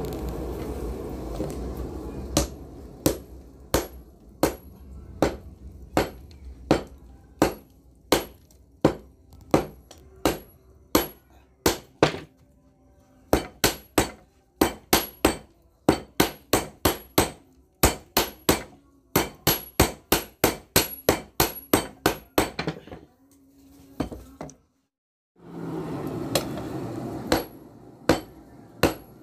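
Hammer blows forging bearing steel on an anvil: sharp ringing strikes, about one to three a second, in runs with short pauses. A steady rushing noise fades out over the first two seconds and comes back briefly near the end.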